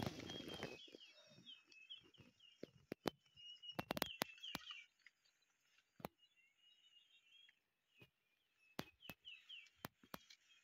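Faint bird chirps in short, repeated phrases, with a rustling burst at the start and scattered sharp clicks throughout.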